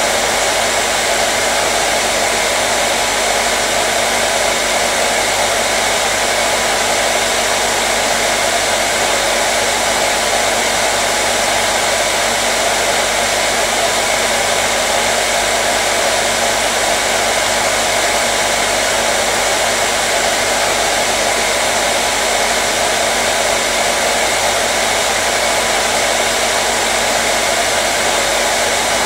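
Hair dryer running steadily: a constant, unchanging blowing whoosh of fan and airflow with a faint steady hum.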